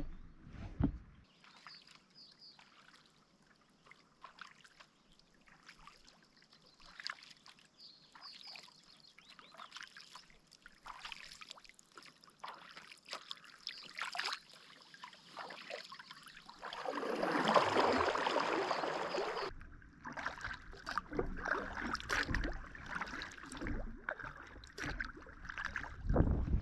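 Kayak paddling in shallow water: small drips and trickles of water off the paddle blades and around the hull. About two-thirds of the way through, a louder rush of water noise lasts a couple of seconds and then cuts off suddenly.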